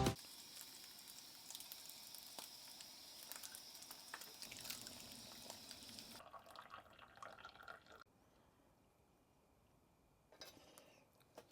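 Faint water dripping, small scattered ticks over a light hiss, fading to near silence about eight seconds in.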